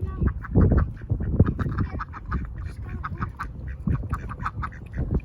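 Ducks quacking in many short, rapid calls over a low rumbling noise.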